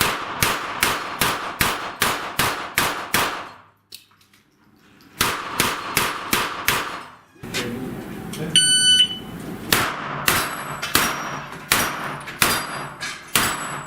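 Rapid gunshots at steel plates in quick strings, about three shots a second, with a short break around four seconds in. Near nine seconds in a shot timer gives its electronic start beep, and a new string of shots follows about a second later.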